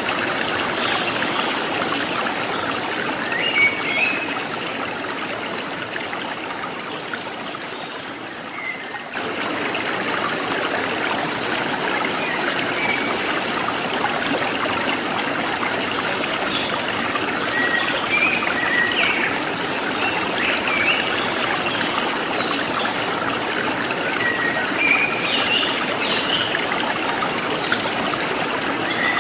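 Forest stream trickling and babbling steadily, with short high bird chirps scattered over it. The water sound dips slightly and then cuts back in abruptly about nine seconds in.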